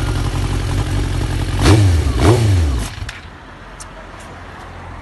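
Suzuki GSX-R1000 K8 inline-four engine running, revved twice in quick succession about two seconds in, the pitch sweeping up and back down each time; it is quieter for the last couple of seconds.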